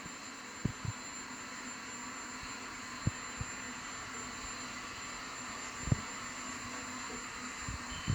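Helicopter running on the ground before lift-off: a steady turbine rush with a thin high whine, broken by a few brief low thumps.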